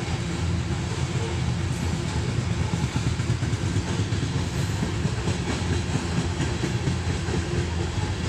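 Coal train rolling past: steel wheels on the rails give a steady, heavy rumble with light clicking.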